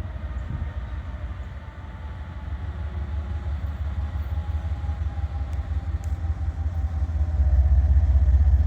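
Diesel switcher locomotive's engine running with a low rumble as it approaches, growing louder near the end.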